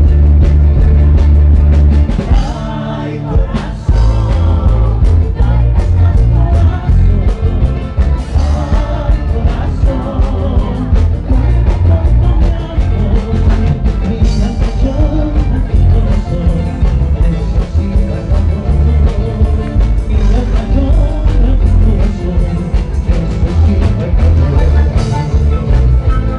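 Rock band playing live with heavy bass, drums and singing. About two seconds in, the bass and drums drop out for a couple of seconds, then the full band comes back in.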